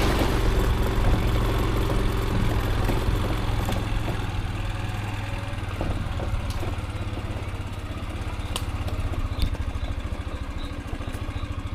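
Motorcycle engine idling steadily, with a low even pulse.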